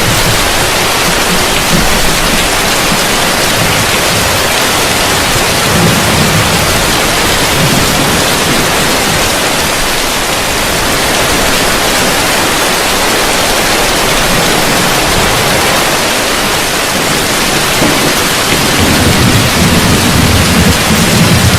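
Heavy rain falling on a roof, a loud steady hiss. Low rumbles swell in about six seconds in and again near the end.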